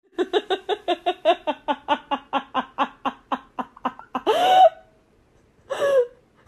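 A person laughing: a quick, even run of short, high-pitched 'ha' pulses, about five a second for some four seconds. It ends in one longer drawn-out laugh, then a short pause and one more brief laugh near the end.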